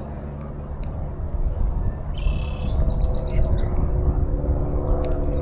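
A steady engine drone runs throughout. About two seconds in, a bird gives a short high call, followed by a quick series of high chips.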